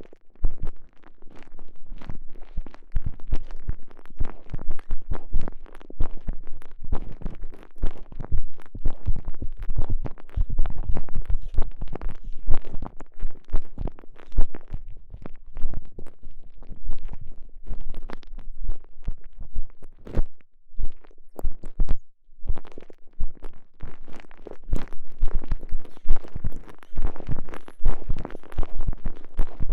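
A TENGA Egg, a soft stretchy elastomer sleeve, squeezed and worked around a microphone inserted inside it: close, dense, irregular clicks and low thumps, with brief pauses about 20 and 22 seconds in.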